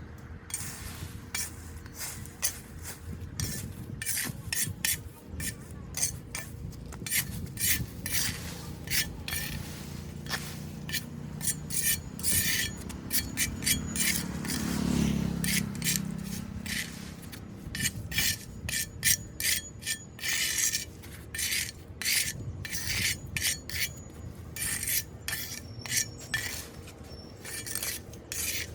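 Repeated short scraping strokes, irregular at about one or two a second, as debris is scraped and raked off a clogged street drain, over a steady low background rush.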